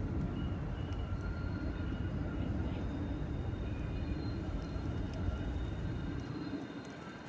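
Train running at a rail yard: a steady low rumble with faint thin high whining tones above it, easing off near the end.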